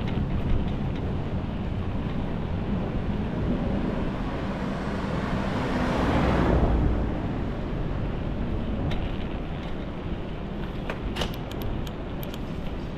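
Street traffic noise, with a motor vehicle passing close that swells to its loudest about six seconds in and then fades away. A few light clicks come near the end.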